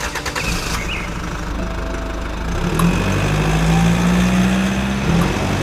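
Tractor engine starting: a quick clatter of cranking, then it catches. It settles into a steady run that grows louder over the last few seconds.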